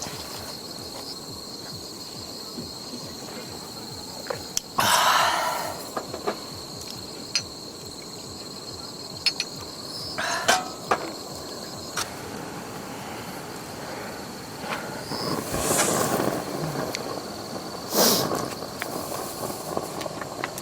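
Steady high insect chirring, with a few sharp knocks and several brief bursts of rustling and clattering from camp gear being handled.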